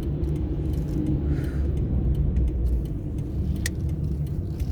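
Steady low rumble of a car driving, heard from inside the cabin, with a single sharp click about three and a half seconds in.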